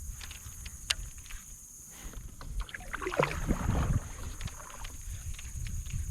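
Kayak on the water: low rumble of water and wind against the hull with small knocks and clicks, and a louder swishing stretch about three seconds in, over a steady high-pitched hum.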